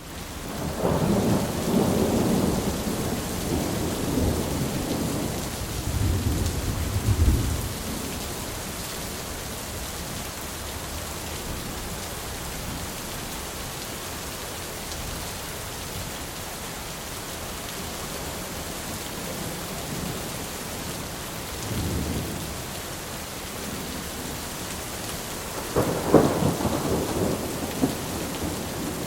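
Thunderstorm: steady rain hiss with rolling thunder. A long rumble of thunder swells through the first several seconds, a short one comes about two-thirds of the way through, and another loud rumble starts near the end.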